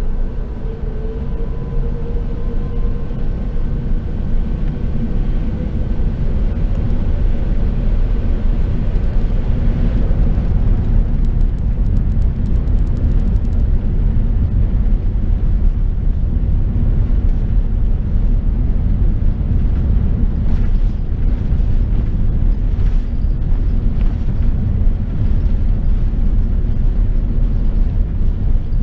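Airbus A380 cabin noise heard from inside the cabin: a steady, deep rumble of engines and airflow. A few faint whining tones fade away over the first ten seconds, and light rattles come now and then later.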